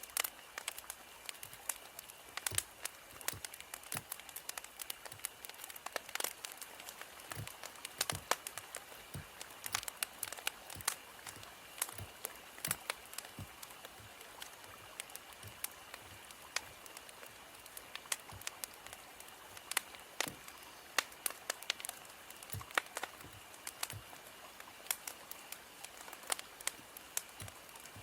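Burning firewood crackling, with frequent irregular sharp pops and snaps over a steady soft hiss.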